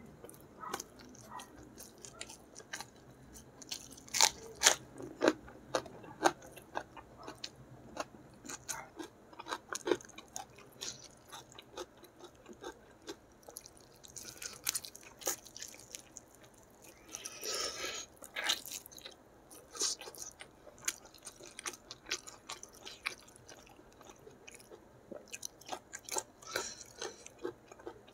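Close-miked chewing and mouth sounds of a person eating gulai chicken and rice by hand: irregular wet smacks and clicks as they bite and chew, with one longer, noisier sound a little past halfway.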